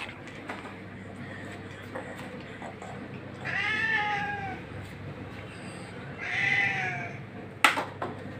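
A domestic cat meowing twice, each meow about a second long and rising then falling in pitch. A sharp knock comes near the end.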